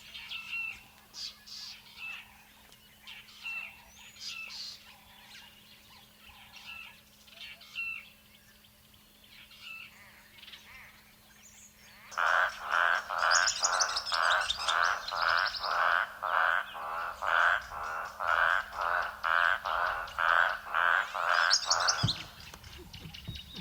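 Faint bird chirps, then about halfway through an Eastern olive toad starts calling: a loud, evenly repeated series of croaks, about two and a half a second, lasting some ten seconds. It stops shortly before the end with a low thump.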